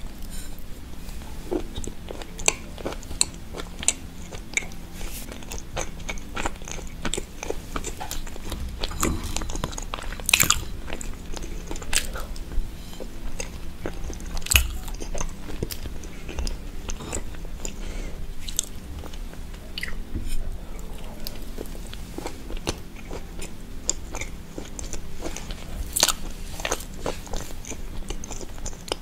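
Close-miked ASMR eating of marble cake with walnuts: soft chewing and biting with many sharp, irregular mouth clicks and small crunches, over a faint steady low hum.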